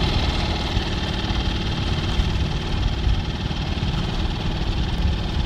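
Small boat's engine running steadily at slow trolling speed, with a continuous low rumble and hiss.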